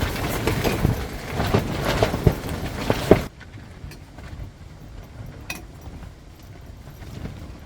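Wind rumbling on the microphone, with a run of sharp knocks and rattles. About three seconds in it cuts off abruptly to a much quieter background with a few faint ticks.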